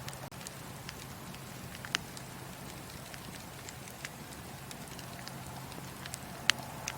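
Wood fire crackling in a fireplace: a steady hiss with scattered sharp pops and snaps, the loudest about six and a half seconds in.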